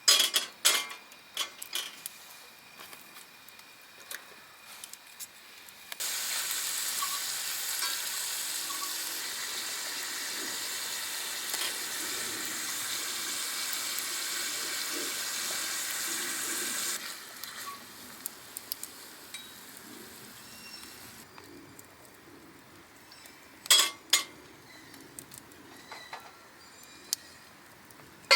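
Metal cookware clinking a few times, then a steady sizzle of food frying in a hot pan for about eleven seconds that starts and stops abruptly, followed by a few more sharp clinks.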